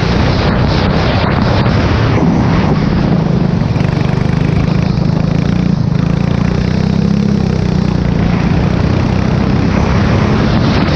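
Formula 4 race car engine running at sustained high revs, with small rises and falls in pitch and a few brief breaks near the start, over steady wind and road noise.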